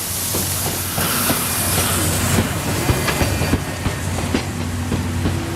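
Steam-hauled passenger train, a D51 locomotive with 12-series coaches, rolling slowly into a station platform: wheels clicking irregularly over rail joints and points, over a steady low hum and hiss.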